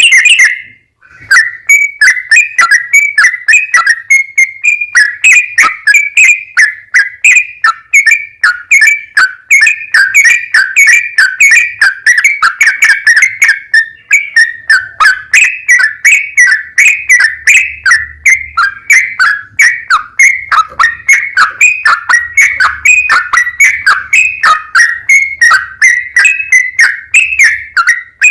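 Yellow-vented bulbul (trucukan) singing a long, unbroken run of short, loud, bubbly notes, about three a second, after a brief pause near the start.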